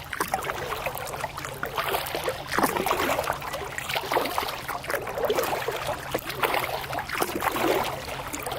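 Kayak paddle strokes dipping into calm water: a swish and drip of water that repeats about every second or so.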